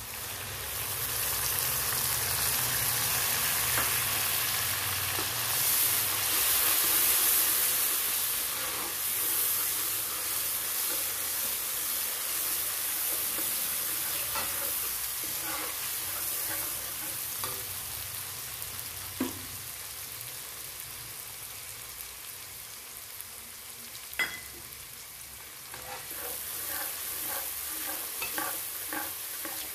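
Ginger-garlic paste hitting hot oil and fried onions in a metal karahi: the sizzle jumps up sharply about a second in, then slowly dies down. A metal ladle stirs through the frying, with two sharp clinks against the pan and a run of quick scraping strokes near the end.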